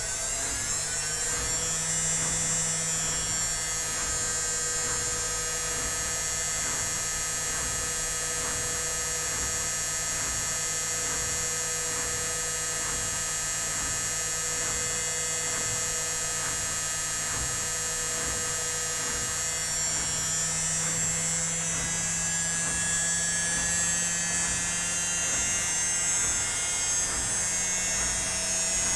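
Indesit WIL82 washing machine on its spin cycle: a steady motor whine that climbs in pitch over the first couple of seconds as the drum speeds up, then holds, shifting to a new pitch about two-thirds of the way through.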